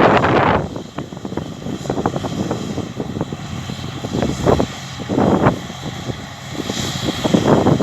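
Massey Ferguson Cerea combine harvester running in the field, a steady engine drone, with uneven gusts of wind buffeting the microphone.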